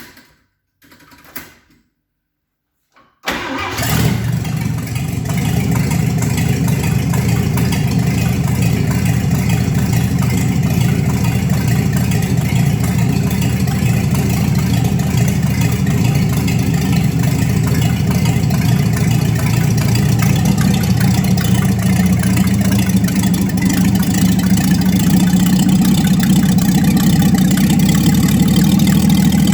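Chevrolet 235 inline-six engine with dual carburettors in a 1954 Chevy 3100 pickup, catching suddenly about three seconds in and then running steadily, a little louder toward the end. Two faint short noises come before it starts.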